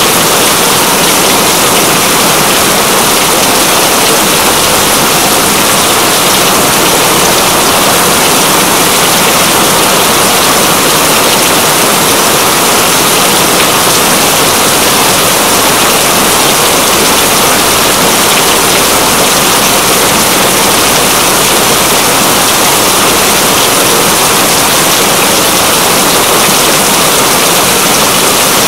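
Steady heavy rain, a dense, even hiss that does not change.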